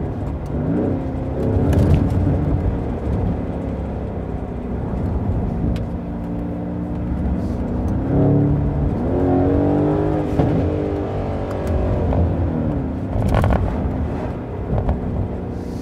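Mercedes-AMG GLC 63 S's twin-turbo 4.0-litre V8 accelerating hard, heard from inside the cabin with a rear window lowered. The revs rise and fall several times through the gears, with a couple of sharp exhaust pops near the end.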